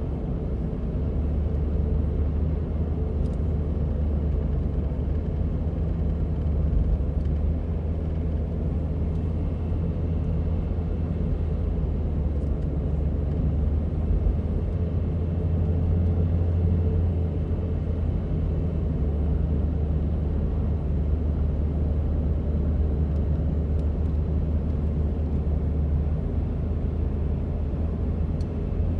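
A 2004 Toyota Prius running, with a steady low hum and rumble.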